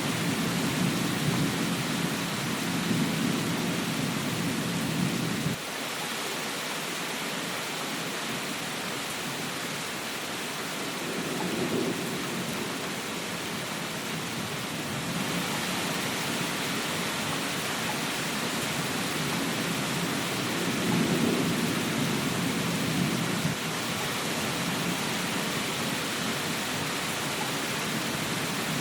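Steady heavy rain hiss with rolling low rumbles of thunder that swell and fade several times. The first rumble cuts off abruptly about five and a half seconds in.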